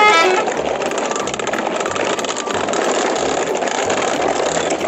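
Plastic toy trucks being dragged on a string over gravel and dirt, their plastic wheels and bodies rattling and crunching steadily. Background music stops just after the start.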